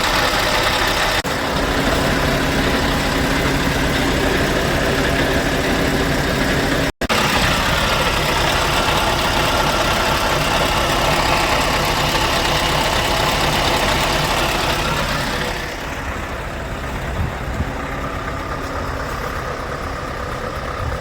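Scania R580's V8 diesel engine idling steadily. It drops out for an instant about a third of the way in and is a little quieter and duller for the last few seconds.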